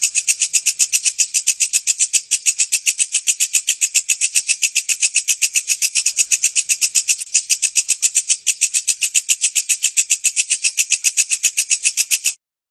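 Walang kecek, a small singing katydid, calling in a fast, even train of high, dry pulses, about eight a second, that cuts off suddenly near the end.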